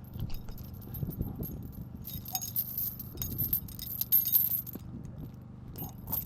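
Metal chain clinking and rattling in irregular bursts as it is handled and hooked over a tree limb, with a steady low hum underneath.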